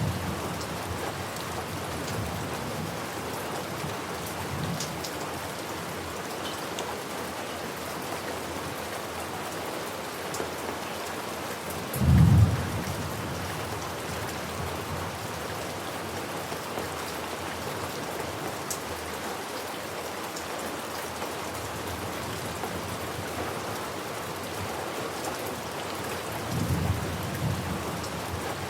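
Steady rain falling, with one short, loud crack of thunder about twelve seconds in and a softer low rumble of thunder near the end.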